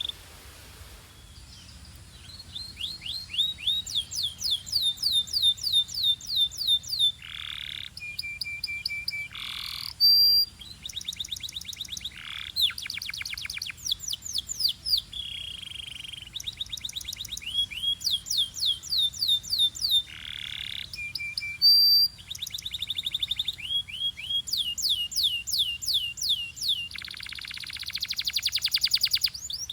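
Belgian canary singing in long runs of fast repeated trilled notes, many sliding down in pitch, with short steady whistles between phrases. The song pauses briefly just after the start.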